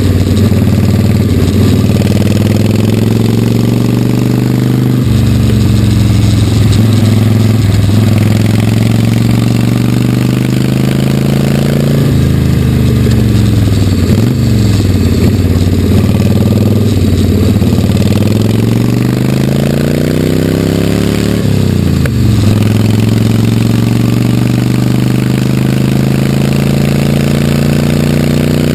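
1946 Harley-Davidson WL's 45-cubic-inch flathead V-twin engine running hard under load. Its revs climb, drop sharply and climb again several times, as the rider shifts gear and rolls off and back on the throttle.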